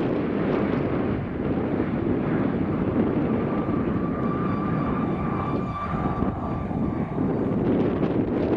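Jet airliner engines with a steady high whine that comes in a few seconds in and fades near the end, over a low rumble and heavy wind buffeting the microphone.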